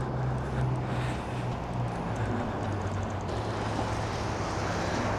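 Steady city street noise: a low traffic rumble under a constant hiss, likely wind.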